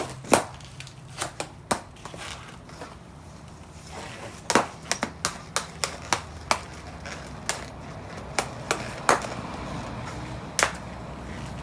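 Balloons being popped one after another: a quick, irregular run of sharp pops, about twenty, a few much louder than the rest, over a low steady hum.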